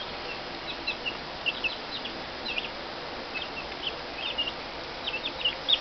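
A brood of baby chicks peeping: many short, high chirps, scattered and overlapping, over a steady background hiss.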